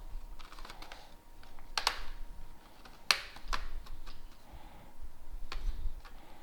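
Plastic bottom cover of an ASUS Vivobook Pro laptop being pried off, its clips letting go with a few sharp clicks among light scraping along the seam.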